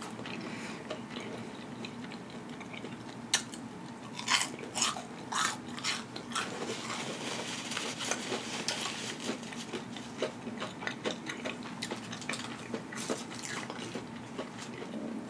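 Close-miked chewing of a mouthful of battered onion rings: irregular wet, crunchy clicks of a mouth eating, busiest in the middle stretch.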